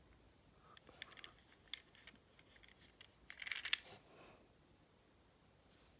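A few light clicks and taps, with a short rustle about three and a half seconds in, like small hard objects being handled close by.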